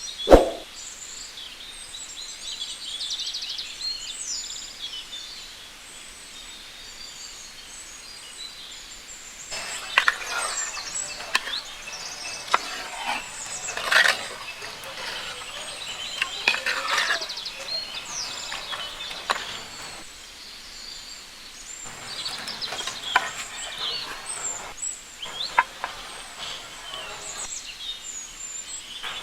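A single metallic clang with a short ring right at the start, then birds chirping steadily, with scattered light clicks and knocks through the second half.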